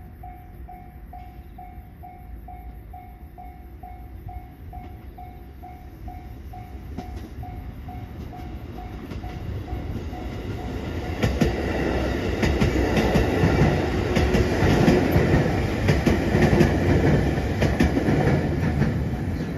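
A JR 311 series electric train approaches and passes close by. Its running noise builds gradually, then grows loud from about eleven seconds in, with wheels knocking rhythmically over the rail joints.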